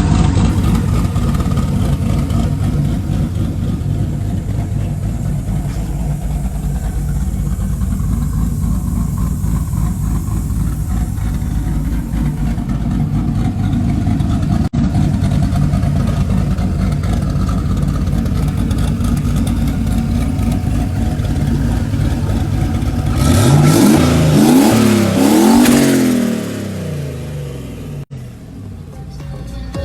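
Turbocharged LS V8 engine in a Mazda Miata running steadily, then revved up and down several times about 23 seconds in before settling back.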